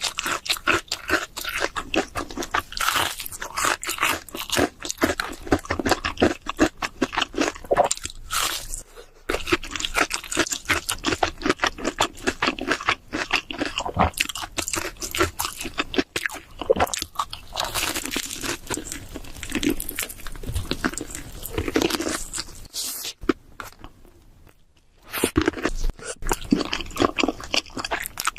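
Close-miked ASMR eating of cheese seafood pizza: dense, irregular crunching and chewing with bites into the crust. It stops briefly about two-thirds of the way through, then picks up again.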